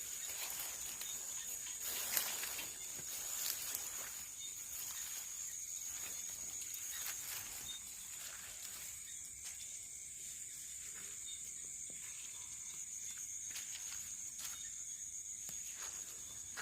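Night insects keeping up a steady high-pitched trill, with faint scattered rustling and footsteps in vegetation.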